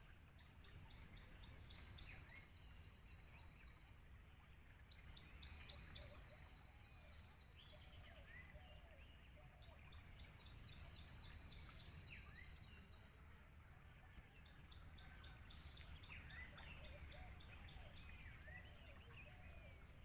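Faint birdsong: one bird repeats a fast, high series of evenly spaced notes four times, each series lasting a second or more, while other birds give short scattered chirps, over a steady low rumble.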